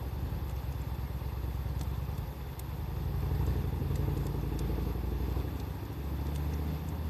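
Wood fire crackling with sparse small pops, over a low motor-like rumble, like a passing vehicle, that swells about three seconds in and then holds.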